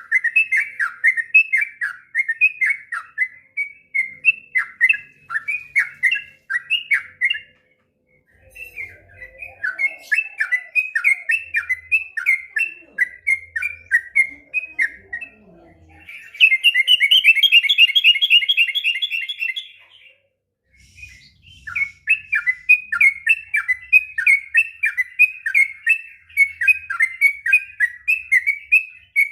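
Yellow-vented bulbul (trucuk) singing a long, rapid run of chattering notes. The song pauses briefly about eight seconds in and again near twenty seconds. Just past the middle it breaks into a few seconds of faster, higher trilling.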